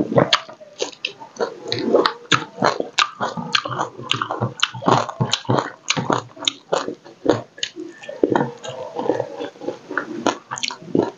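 A person chewing food close to a clip-on microphone: irregular wet clicks, smacks and crunches, several a second.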